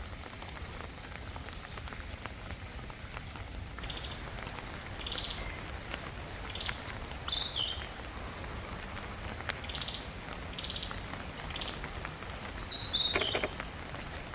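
Steady rain with scattered drops pattering, and a bird giving short high calls over and over, with one louder, falling call near the end.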